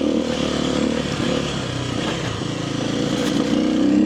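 Kawasaki KLX300R single-cylinder four-stroke dirt bike engine running under the rider, the throttle easing off slightly midway and opening up again near the end.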